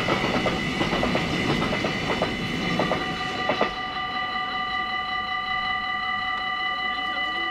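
Container freight train running past, its wheels clicking over rail joints as the last wagons go by. The train noise stops about three and a half seconds in, leaving the level crossing's electronic warning bell ringing steadily.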